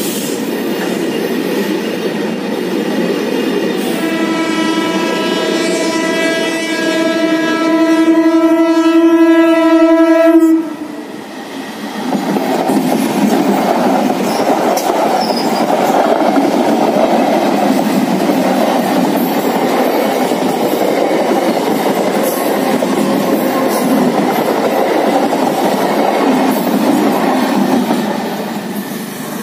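Container goods wagons rumbling past on the near track. About four seconds in, an approaching electric local train (EMU) sounds one long horn blast of about six seconds that cuts off sharply. From about twelve seconds the trains run past with steady wheel clatter and rumble, fading near the end.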